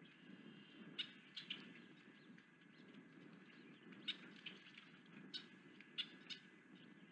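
Short, sharp, high bird chirps, about eight of them at irregular spacing, over a faint steady low background rumble.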